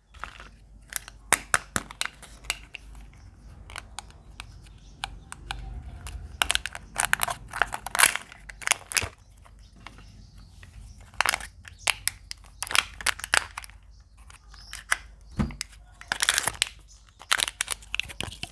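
Surprise eggs being unwrapped and cracked open: foil and plastic wrappers crinkling and tearing, with irregular sharp crackles and snaps.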